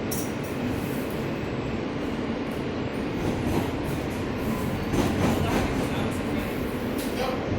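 R160A subway car running on the track, heard from inside the car: a steady rumble of motors and wheels, with a few sharp clicks about five seconds in and again near the end.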